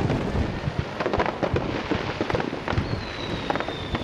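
Starmine fireworks barrage: a rapid run of overlapping shell bursts and crackles, several a second, over a continuous low rumble of booms.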